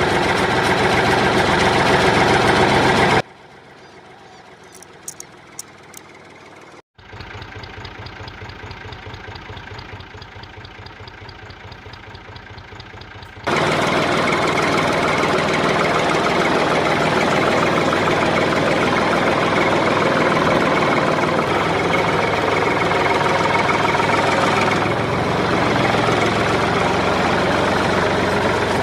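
A motor running with a rapid, even beat. It drops to a much quieter level with a few clicks about three seconds in, comes back as a softer pulsing run, then turns loud and steady again from about halfway on.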